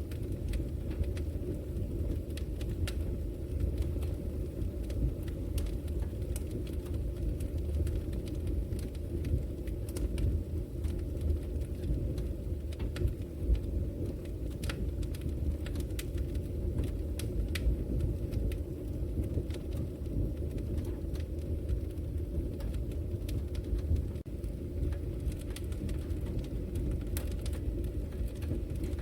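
Wood logs burning in a fireplace: a steady low rumble of the flames with frequent irregular sharp crackles and pops from the wood.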